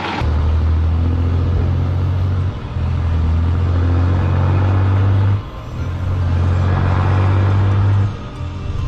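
Low, steady drone of a heavy truck's engine, broken by short dips in level about every two and a half seconds.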